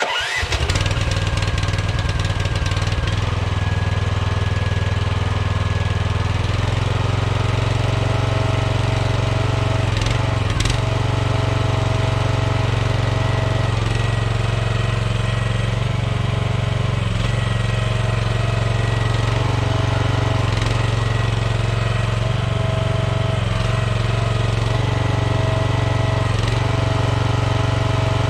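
Mini excavator engine starting and then running steadily under load as the machine is worked, its pitch shifting slightly as the hydraulics are used, with a couple of knocks around ten seconds in.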